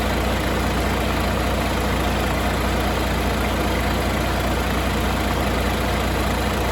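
Volvo D13 inline-six turbo diesel engine idling steadily at an even speed.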